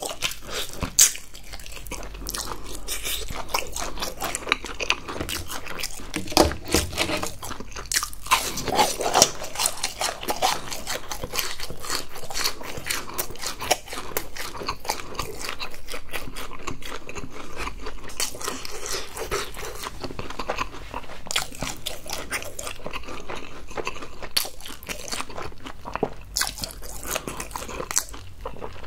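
Close-up eating sounds of crispy fried chicken and fried cheese balls: continuous crunching and chewing, broken by sharper bites.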